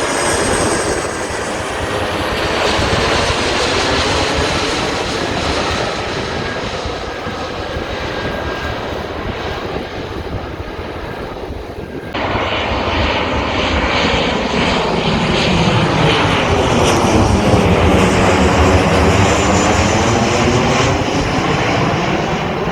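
Airplane flying low overhead, its engine noise loud and steady. After an abrupt cut about halfway through, it sweeps as the plane passes over.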